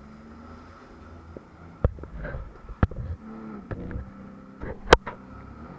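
Jet ski engine running at a steady pitch that wavers slightly, with several sharp knocks scattered through it, the loudest near the end.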